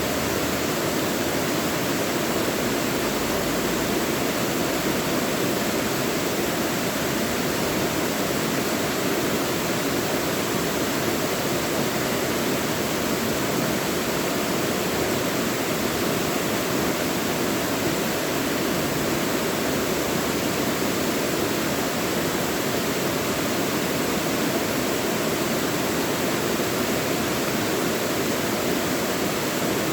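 Mountain valley stream, water rushing in a steady, unbroken wash.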